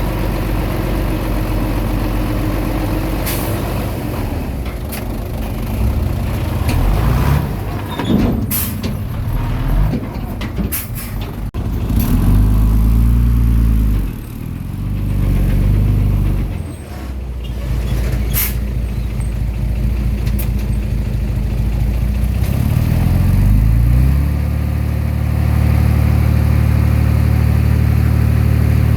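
Komatsu D20P bulldozer's diesel engine working under load, its pitch dropping and picking up again, with several sharp metallic clanks along the way. Near the end the engine speeds up and holds a steady higher note.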